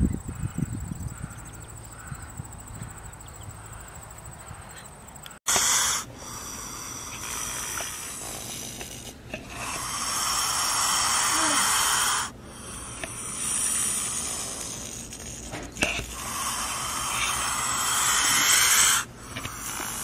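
A snake hissing: a series of long, breathy hisses, each lasting a few seconds with short breaks between. Before the hissing starts, about five seconds in, there is only a quiet low rumble like wind.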